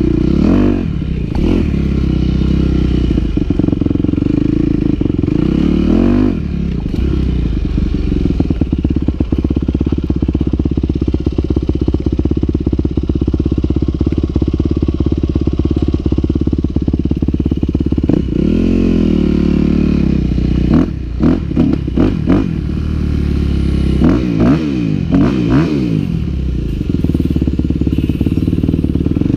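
Yamaha WR250F single-cylinder four-stroke dirt bike being ridden, its engine running steadily and revving up and down several times, with a run of quick throttle changes in the second half.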